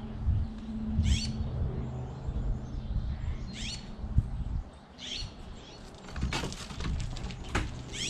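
A small songbird calling in short, quick descending chirp phrases about every one to two seconds, over a low steady hum. A run of sharp clicks and scratches comes in about two-thirds of the way through.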